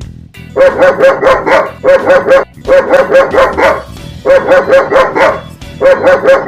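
Recorded dog barking played back, in five quick volleys of four or five barks each, every volley alike.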